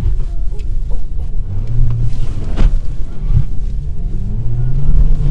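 Hyundai Solaris car engine revving under load in deep snow over a heavy low rumble. The engine note climbs about two seconds in and again near the end, with a sharp knock about halfway through.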